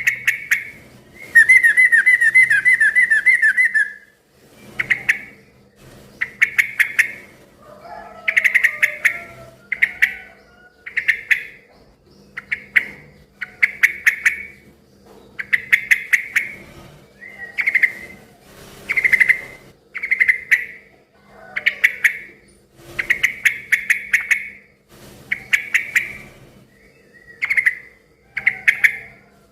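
Yellow-vented bulbul (trucukan) singing loudly: short bubbly chattering phrases repeated every second or two, with one fast, even trill lasting a couple of seconds near the start.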